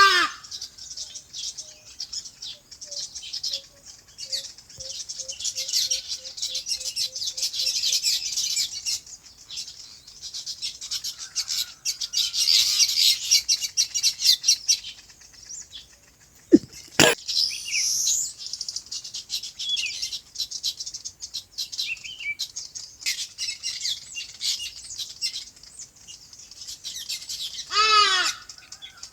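A flock of small birds chirping continuously in a dense, overlapping chorus of high, quick notes, busiest about halfway through. A single sharp click comes a little over halfway through, and a short, louder call with a lower, fuller pitch sounds at the very start and again near the end.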